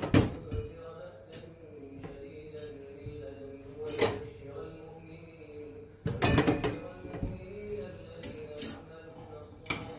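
Dishes and cutlery clinking and knocking as they are handled, with a few sharp clinks and a cluster a little past halfway, over a chanted Quran recitation with long, drawn-out notes.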